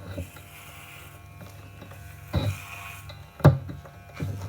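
A steady low electric buzz, with two sharp knocks, one about two and a half seconds in and a louder one about a second later.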